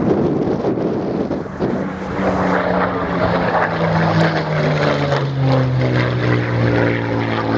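Supermarine Spitfire's piston engine running as the aircraft flies past, its steady note sinking slowly in pitch as it passes, after a second or so of wind on the microphone.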